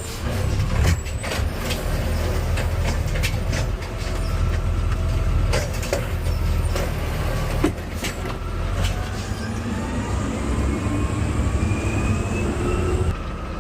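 Garbage truck's diesel engine running with rattles and knocks. From about halfway in, its pitch climbs steadily, then drops off suddenly near the end.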